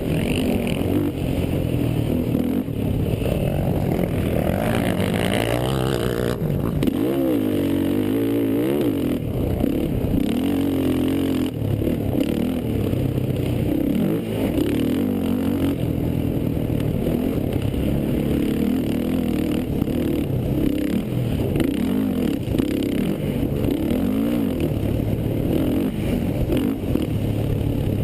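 Racing quad (ATV) engines running hard, the pitch climbing and dropping again and again as the throttle is opened and shut and gears change.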